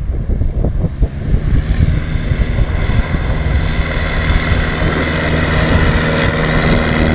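An engine running with a steady pitched drone that comes in about a second and a half in and grows louder, as if approaching.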